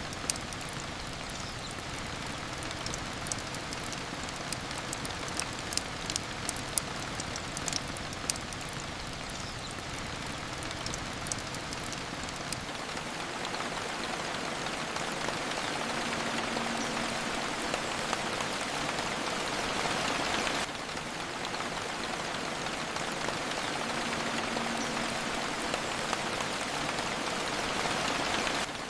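Steady rain falling, with scattered sharp drip ticks through the first half. The rain then swells louder and cuts back suddenly, twice.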